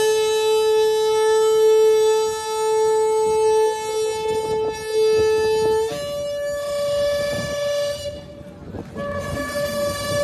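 Shofar blown in long sustained blasts: one steady note for about six seconds, then a jump to a higher note, a short break about eight seconds in, and another blast on the higher note.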